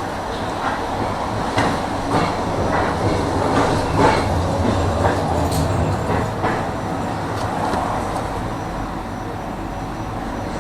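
A tram running along its track with a steady rumble. Its wheels knock irregularly over rail joints for most of the first six seconds, then it runs more smoothly.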